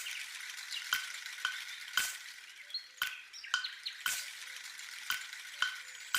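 Food sizzling in hot oil in a pan while a metal spoon stirs it, knocking against the pan about twice a second.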